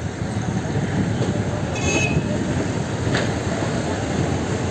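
Train running across a rail bridge: a steady rumble of wheels on the track, with a brief high squeal about two seconds in.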